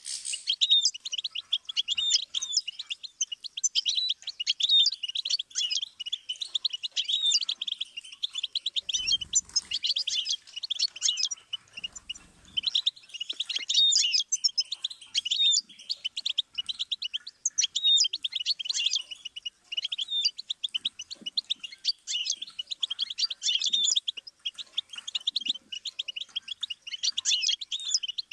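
Goldfinch singing a long, unbroken song of rapid twittering and trilled notes, high in pitch. There are two brief low bumps partway through.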